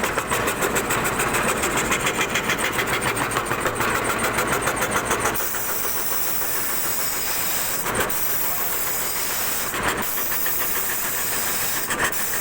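CNC wood carving router at work, with a rapid, even pulsing for about the first five seconds. It then changes to a steady hiss broken by a few sharp clicks.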